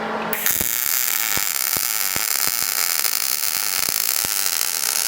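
Arc welder laying a weld: a steady hiss with irregular sharp pops, starting a moment in and cutting off at the end. The welder is running properly now that its settings have been put right after being tampered with.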